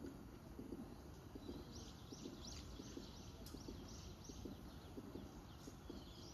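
A bird calling in a quick series of short, high, falling notes, about three a second, starting about a second and a half in. Beneath it runs a faint, low, irregular patter.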